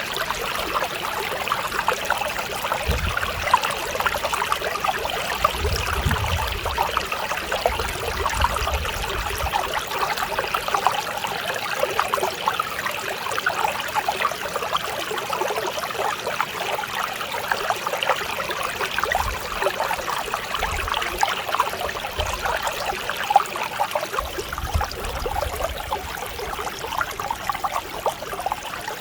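Mountain stream flowing over rocks: a steady babble and trickle of running water, with a soft low rumble that swells and fades a few times.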